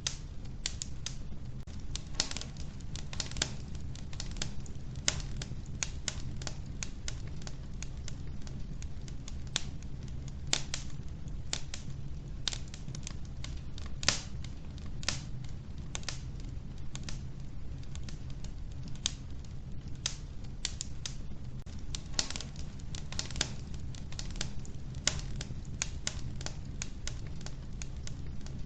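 Wood fire burning in a wood-burning stove, logs crackling with irregular sharp pops and snaps over a low, steady rumble.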